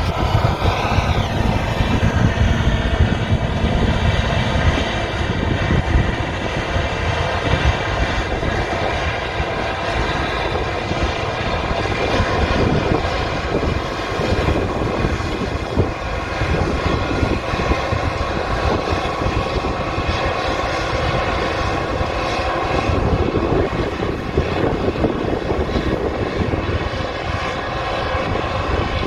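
Claas Lexion combine harvester running steadily while harvesting wheat: a constant engine and threshing-machinery drone with several steady whining tones over it.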